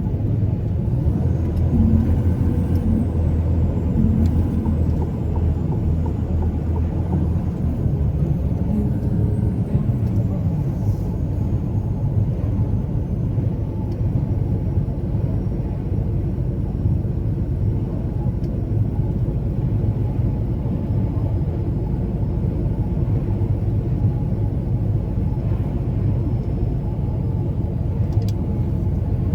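Truck engine and road noise while driving: a steady low rumble, with the engine note shifting up and down in the first ten seconds or so.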